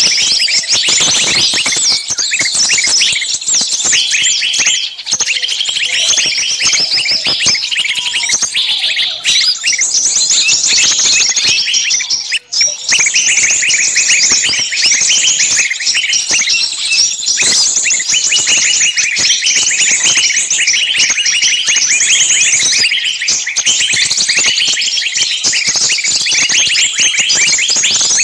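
Many small birds chirping rapidly and continuously, their calls overlapping in a dense high chatter.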